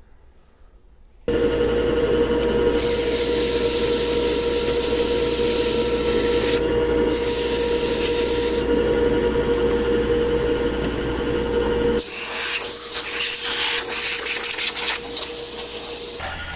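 A power tool starts abruptly about a second in and runs steadily with a constant hum, under a rough abrasive rubbing on wood. About twelve seconds in it quietens and the sound turns into irregular scraping strokes, which stop just before the end.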